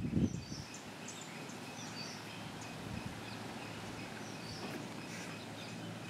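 Small birds chirping in short, high, scattered notes over a faint steady background hiss, after a couple of low thuds right at the start.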